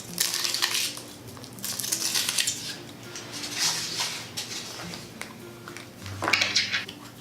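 Kinder Surprise egg being unwrapped and opened by hand: the foil wrapper crinkles and the plastic toy capsule and its parts clatter, in several short bouts, the loudest near the end.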